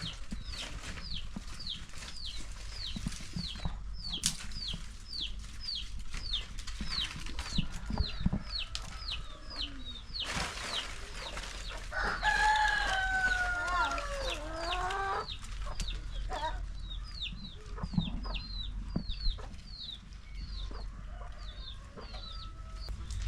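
Chickens: a steady run of short, high, falling peeps, about two to three a second, typical of chicks, with a rooster crowing once near the middle, a call of about three seconds.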